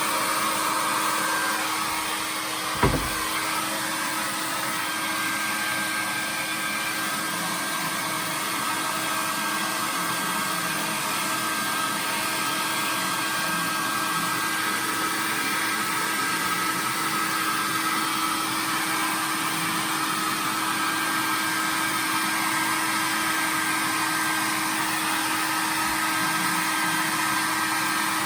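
Hair dryer blowing steadily, likely drying a dog's coat after a bath, with a motor hum under the rush of air. A single short thump about three seconds in.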